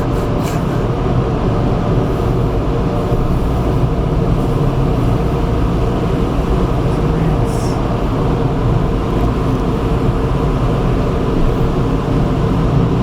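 Car wash drying blowers running at full power, heard from inside the car's cabin: a loud, steady rush of air with a low hum under it.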